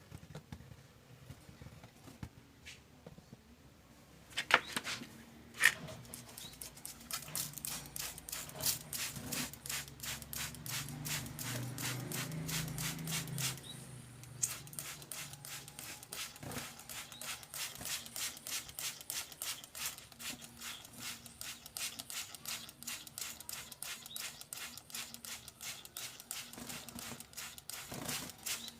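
Male prenjak gunung (mountain prinia) giving a long, even run of sharp ticking notes, about four to five a second, starting about seven seconds in after two louder single clicks.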